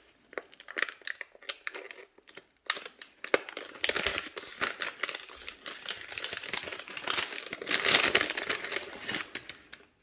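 Small plastic baggie crinkling and rustling as it is handled and opened, with scattered sharp crackles and clicks, loudest in spells about four and eight seconds in.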